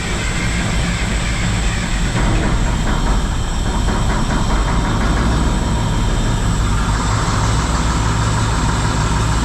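1974 Mack R model truck's diesel engine running steadily just after being started following a bent pushrod replacement and valve adjustment, with fuel not yet fully through the system.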